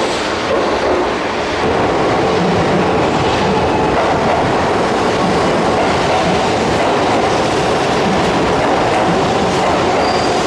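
Keihan commuter train running at the platform of an underground station, a loud steady rumble of wheels on rail with clattering over the rail joints.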